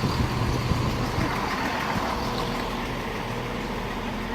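Diesel engines of a Class 170 Turbostar diesel multiple unit running with a steady, even low hum.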